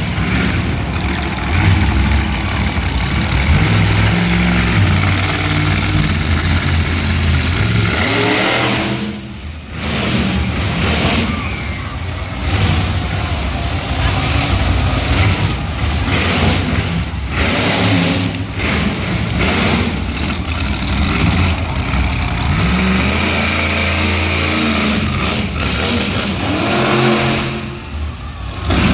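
Monster truck engine running hard, its revs rising and falling under the throttle, with a short dip as the throttle is lifted about nine seconds in and again near the end.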